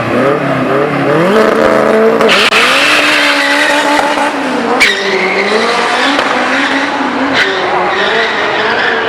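Turbocharged Honda Civic drag car accelerating hard, its engine note climbing in steps as it shifts through the gears, then holding high. Two sharp cracks cut through later on.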